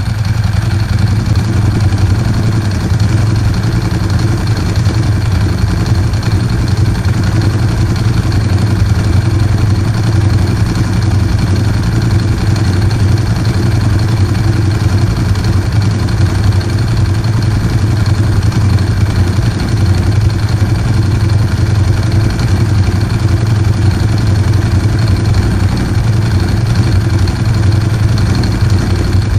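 Ducati 916's 90-degree V-twin engine idling steadily through Termignoni exhaust pipes, running on its first start after a rebuild.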